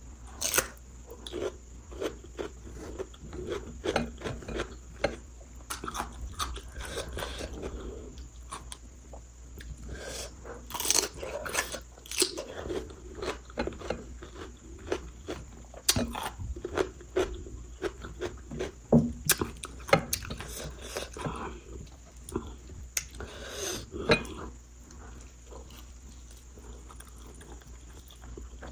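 A person chewing and biting food, with irregular sharp crunching bites.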